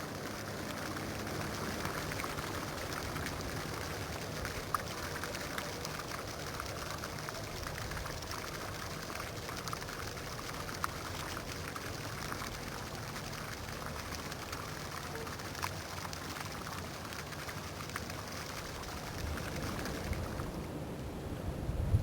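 Steady splashing of running or falling water, with a few faint clicks, that cuts off about twenty seconds in.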